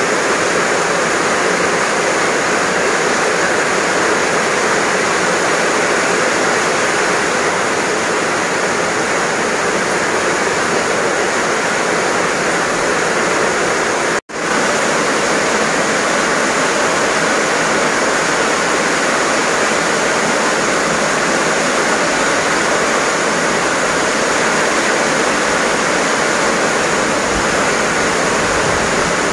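Heavy rain pouring steadily, a dense even hiss that drops out for an instant about halfway through.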